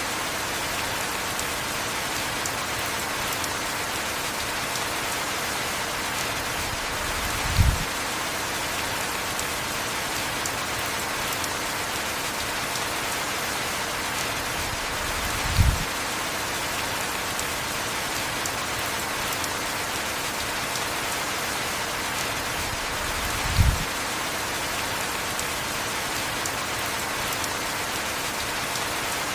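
Steady heavy rain, an even hiss. A short low thump comes about every eight seconds, three times.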